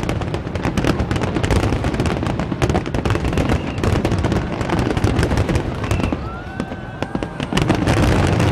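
Aerial fireworks display in a dense barrage: rapid overlapping bangs and crackling of bursting shells. It eases briefly about six seconds in, then builds again near the end.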